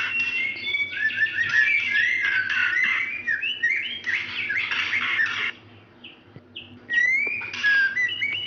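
Female white-rumped shama calling for a male, as a hen in breeding condition does: a fast run of chattering notes and short rising whistles, breaking off about five and a half seconds in and resuming a second and a half later with rising whistles.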